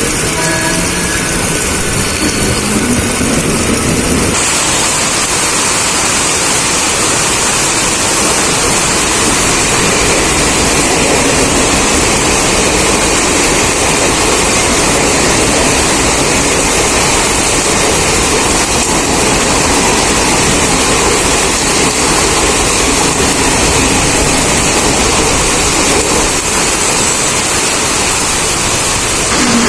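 Mumbai suburban electric local train running through heavy rain: a loud, steady rushing of wheels, rails and rain. About four seconds in the noise grows fuller and brighter, then holds even.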